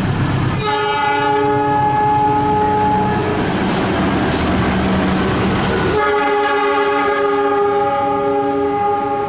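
CC 203 diesel locomotive sounding its multi-tone air horn in two long blasts: the first starts just under a second in and lasts about two seconds, the second starts about six seconds in and is still sounding at the end. A low diesel engine rumble runs underneath, with the rattle of passing train wheels.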